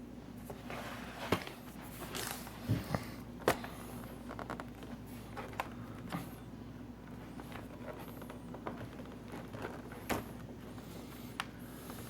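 Scattered small clicks, taps and knocks of hand work on a laptop's screws and plastic parts during reassembly, over a faint steady hum.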